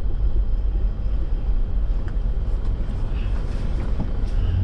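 Steady low rumble of a vehicle driving, engine and tyre noise heard from inside the cabin.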